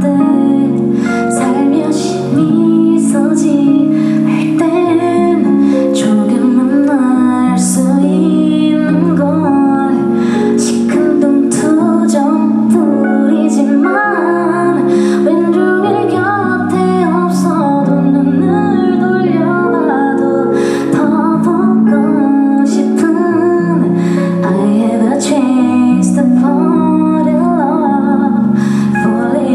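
Live pop band music: a female lead voice singing over guitar and sustained chords, with scattered drum and cymbal hits.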